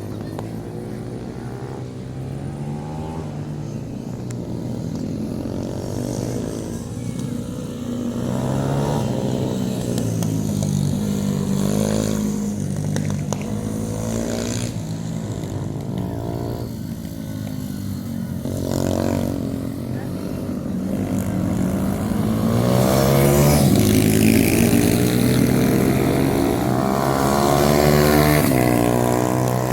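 Small single-cylinder pit bike engines revving up and down as they race, the pitch rising and falling through gear changes and corners. Loudest about three-quarters of the way through.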